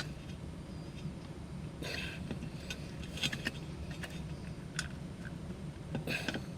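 Small metal parts and tools clinking and rattling a few times, with the loudest rattles about two seconds in, around three seconds in and near the end, over a steady low hum.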